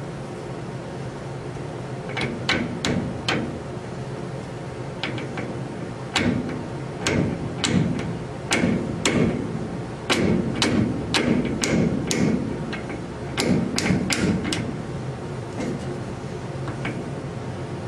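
Hammer blows on metal, in uneven runs of several sharp strikes with short pauses between, over a steady low hum.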